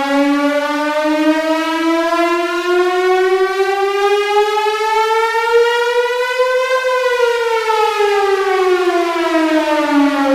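A siren wailing: one pitched tone that slowly rises in pitch for about seven seconds, then falls back down for the rest.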